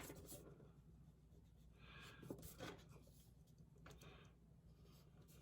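Faint pencil strokes on paper: a few short scratchy strokes about two and four seconds in, over a low steady hum.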